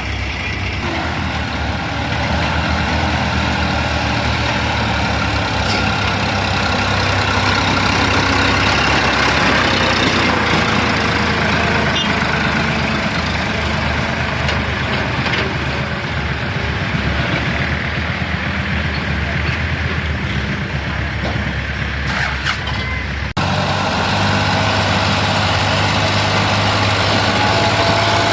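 Heavy diesel machinery engines running steadily, with an abrupt cut about 23 seconds in after which engine sound carries on.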